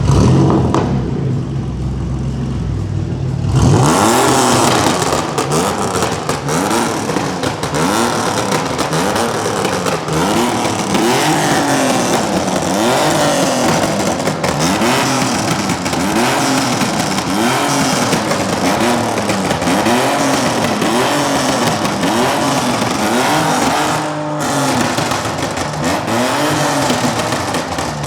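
Music for the first few seconds, then a car engine revved hard over and over, each rev rising and falling in pitch about once a second. Very loud.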